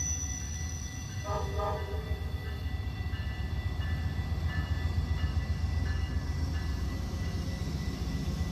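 A train rumbling steadily by, with two short horn toots about a second in. Thin higher tones come and go after them.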